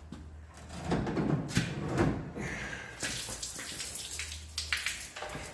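A few knocks and clunks, then a scraping, hissing noise, as an engine is worked up out of the car's engine bay on an engine hoist.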